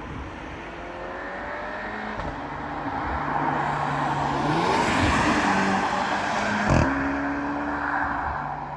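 Škoda Octavia RS exhaust through a Milltek Road+ cat-back system, running under load: the engine note swells to a peak past the middle and its pitch jumps up and down in steps several times. A single sharp pop sounds about two-thirds through.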